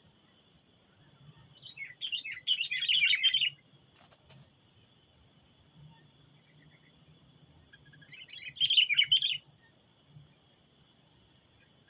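Sooty-headed bulbul (kutilang) giving two bursts of rapid chattering calls, about two seconds in and again about eight seconds in, each lasting a second or two, over a steady high insect drone.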